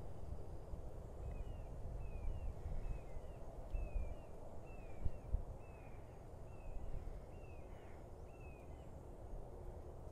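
A bird repeating a short down-slurred whistled note about a dozen times, roughly every two-thirds of a second, starting about a second in and stopping near the end, over a low rumble with a couple of dull thumps near the middle.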